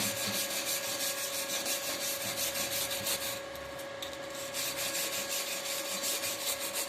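Weld bead being scrubbed clean of slag after a stick-welding pass, in quick back-and-forth strokes of about six a second, with a pause of about a second in the middle. A steady hum runs underneath.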